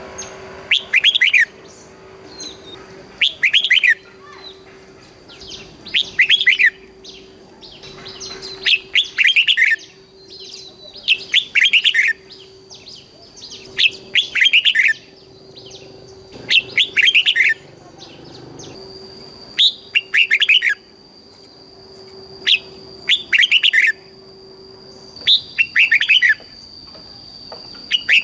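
Red-whiskered bulbul singing: short loud song phrases repeated about every two to three seconds, over a faint steady high tone.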